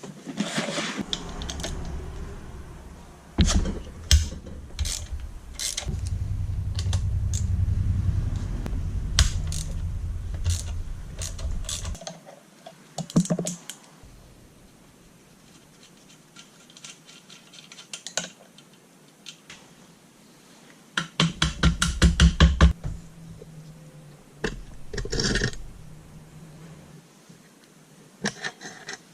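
Hand tools working on metal parts of a Honda Monkey's engine: scattered clicks and rattles, a steadier low-pitched rumble in the first half, and a fast run of ratchet-like clicks later on.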